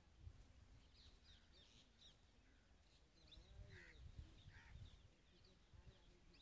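Faint outdoor ambience: small birds chirping in short repeated calls, over a low uneven rumble.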